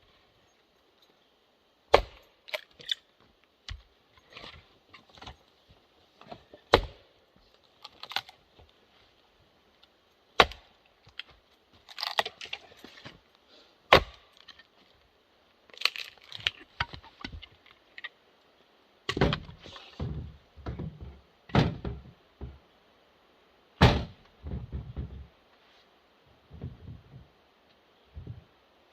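Douglas fir firewood pieces knocking and thudding as they are thrown and land on a load, a sharp knock every few seconds, some followed by a short tumbling clatter of wood on wood.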